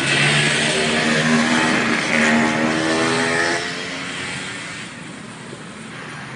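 A motor vehicle's engine passing close by, loud for about the first three and a half seconds and then fading away.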